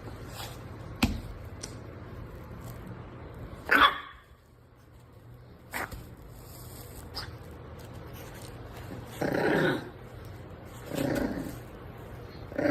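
A micro-size American bully dog barking: one sharp, high bark about four seconds in, then three longer, lower barks spaced a second or two apart near the end.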